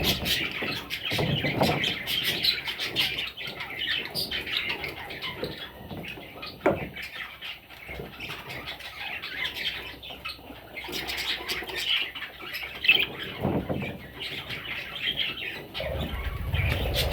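Budgerigars chattering and squawking without pause, a mix of chirps and harsh calls.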